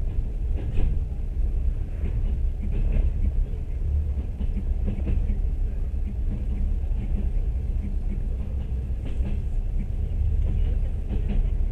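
Moving train heard from inside the carriage: a steady low rumble of wheels on rails, with faint irregular knocks.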